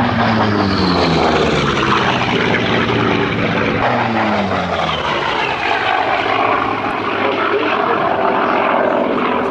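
Piston-engined propeller warbirds flying past, each engine note dropping in pitch as it goes by: one pass just after the start and another about four seconds in.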